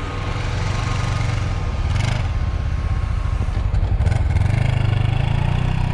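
Engine of farm machinery running steadily and getting gradually louder, with a rattle from the machine.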